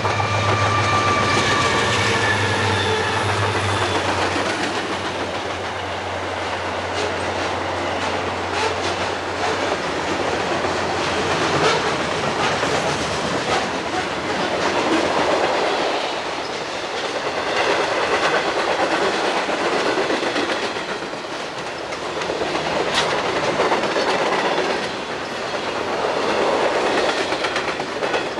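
Conrail diesel freight train passing. The locomotives' engine drone fades after about the first ten seconds, and the cars rolling by follow, their wheels clicking over the rail joints under a rumble that rises and falls.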